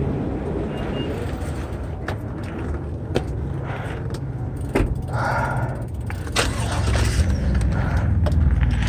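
Mountain bike being ridden along a dirt trail: steady wind rumble on the microphone, with scattered clicks and rattles from the bike over the ground and a short scraping noise a little past halfway.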